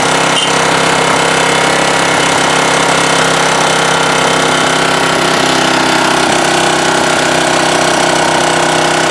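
1987 Honda HRA214 lawnmower engine running steadily at high throttle with the choke still on, shortly after a cold start.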